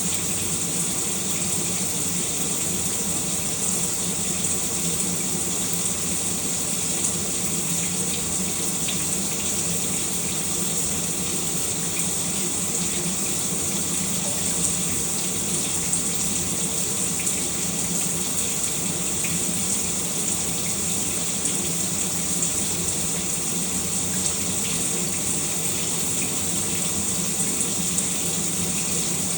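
Shower running steadily, water spraying and splashing in an even hiss.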